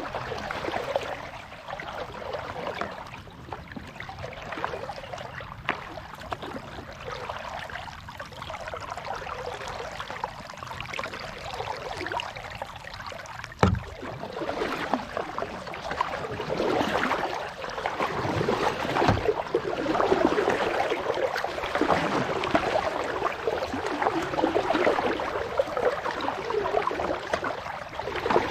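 Water sounds around a paddled kayak: a kayak paddle splashing and dripping in lake water, growing louder and fuller in the second half. A single sharp knock comes about halfway through.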